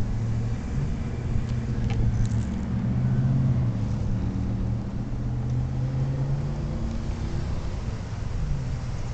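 Motor vehicle engine running with a low, steady hum that rises and falls slightly in pitch, over road and wind noise.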